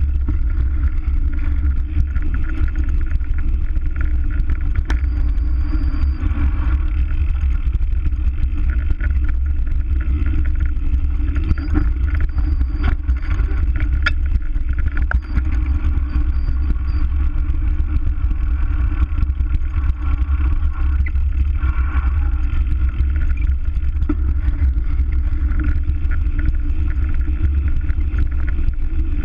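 Steady, loud low rumble of wind buffeting a bike-mounted GoPro's microphone while riding, mixed with road noise and a few faint clicks.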